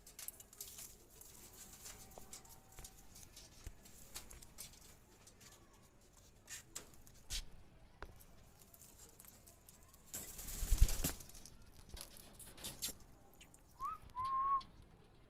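Alexandrine parakeets with scattered clicks and scratches, a loud rustle about ten seconds in, and two short rising chirps near the end.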